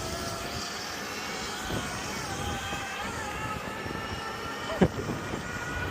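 Electric bike motor whining as it pulls away and speeds up, its pitch rising slightly and then holding, over wind and road noise. A brief sharp sound comes about five seconds in.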